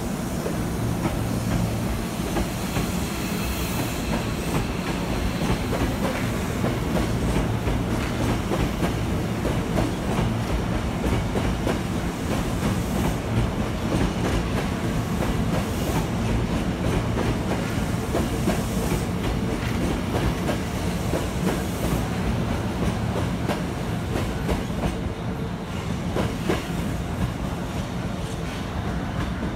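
Hankyu electric commuter trains running through the station: a steady rumble with the wheels clicking over rail joints and points.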